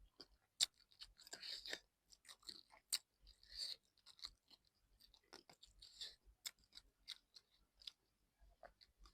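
A person chewing fish: irregular sharp mouth clicks and short crunchy bursts, with a few louder chews spaced a second or two apart.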